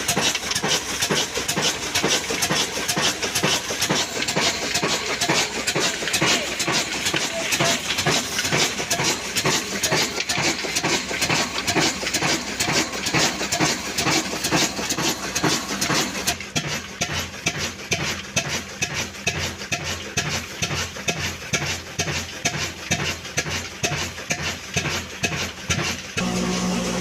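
Old black desi diesel engine of the Ruston type chugging at slow speed with an even, regular exhaust beat while it runs a flour mill. About two-thirds of the way through, the hiss above the beat drops away and the beats stand out more. Just before the end, the sound changes abruptly to a steady hum.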